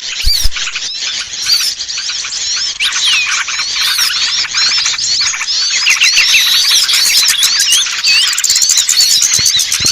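A dense chorus of many small birds chirping and chattering rapidly with overlapping high, quick sweeping notes: a bird-lure recording played to draw small birds down.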